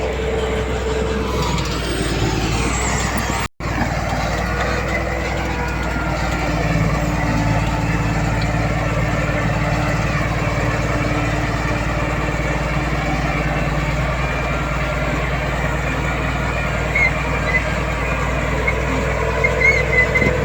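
Heavy diesel earthmoving machinery running steadily under load, with a falling whine about two seconds in. The sound drops out for an instant about three and a half seconds in.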